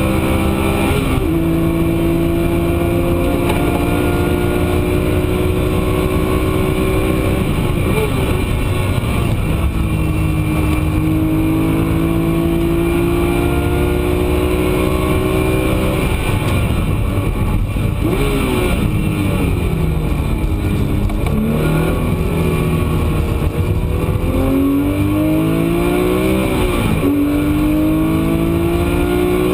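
Porsche 997 GT3 RS Mk2's naturally aspirated 3.8-litre flat-six at racing speed, heard from inside the cockpit. The engine pulls hard with its pitch climbing and falling back at several upshifts. About two-thirds through, and again near the end, the revs dip and swing up and down quickly as it slows and shifts for corners.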